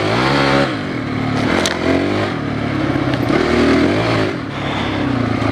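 Enduro dirt bike engine revving up and down as it is ridden over a technical trail: a sharp rise in revs at the start, then repeated swells of throttle, with a couple of light knocks.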